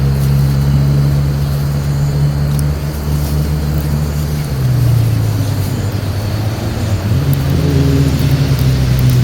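An engine running steadily, its pitch dropping about four and a half seconds in and sliding up again near the end.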